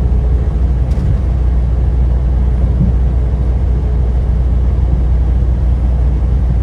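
Semi truck heard from inside the cab while driving at highway speed: a loud, steady, low engine and road rumble.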